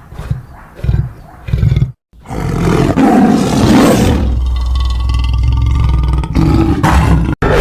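Lion roar sound effect: three short grunts in the first two seconds, then, after a brief hard cut, one long loud roar lasting about five seconds that cuts off abruptly near the end.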